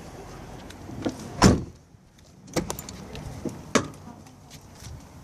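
A car door shutting with a heavy thud about a second and a half in, followed by a few lighter clicks and knocks.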